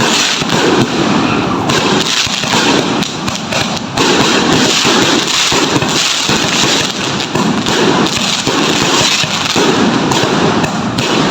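Fireworks and firecrackers going off in a dense, continuous crackle of rapid pops with no pause.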